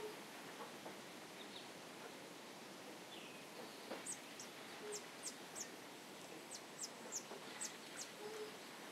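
Faint nature ambience: a steady soft hiss, with a bird giving a quick run of short, high, down-slurred chirps starting about four seconds in.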